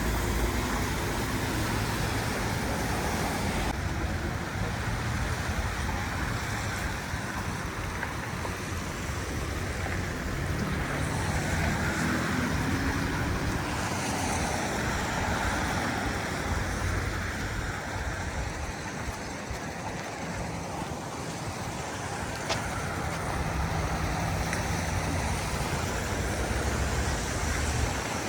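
City street traffic: cars and trucks passing and idling, giving a steady road noise, with one engine rising in pitch as it pulls away about halfway through.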